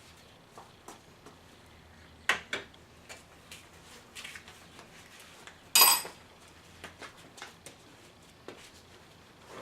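Scattered metallic clinks and knocks of tools and parts being handled during an oil change, the loudest a single ringing clank about six seconds in.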